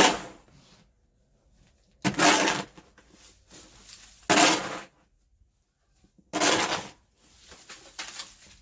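Snow shovel scraping and crunching through packed snow and ice, one stroke about every two seconds.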